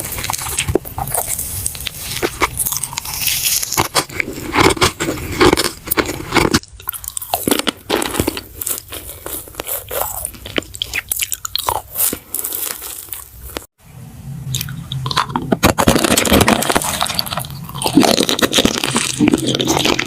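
Close-miked ASMR eating: crisp crunching bites and chewing of crunchy food, a dense run of crackles. There are brief breaks about a third and two thirds of the way through.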